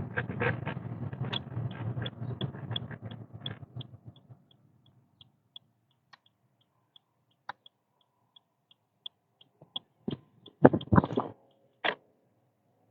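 Car running, heard from inside: a low road-and-engine rumble that fades out about four seconds in. A light, regular ticking about three times a second runs through it and on past the fade. A few sharp knocks come near the end.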